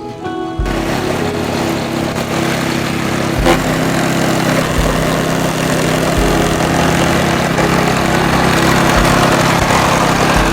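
Small engine of a KIORITZ AZ levee grass mower running steadily, with a few low thumps and a sharp click about three and a half seconds in. Background music fades out just before the engine comes in.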